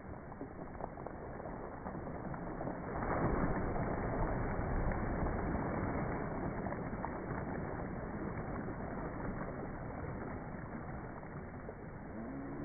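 Sea waves washing onto the shore: a steady wash that swells about three seconds in as a wave comes in, then slowly ebbs.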